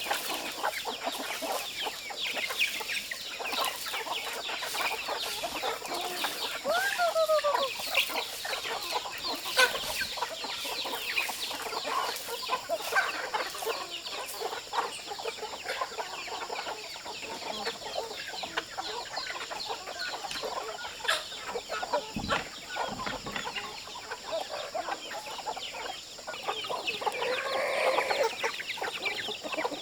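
A flock of chickens clucking and calling together, many short overlapping calls, with a louder cluster of calls near the end.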